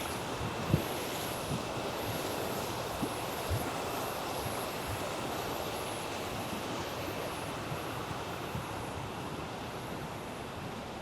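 River water rushing steadily, with a few soft thumps in the first four seconds.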